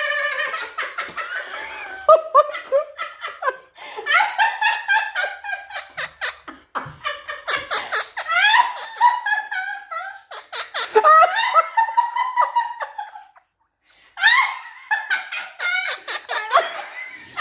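Quaker parrot (monk parakeet) mimicking human laughter, repeated bouts of ha-ha sounds broken by a few short pauses.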